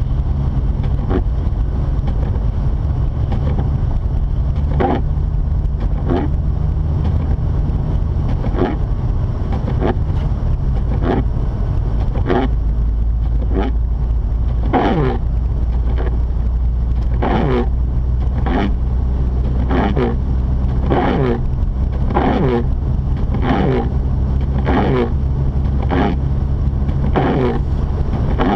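Inside the cabin of a Mazda RX-8 on the move: the steady low drone of its two-rotor rotary engine and road noise. Over it comes a regular swishing stroke about every 1.2 seconds from the windshield wipers clearing snow, plainer from about ten seconds in.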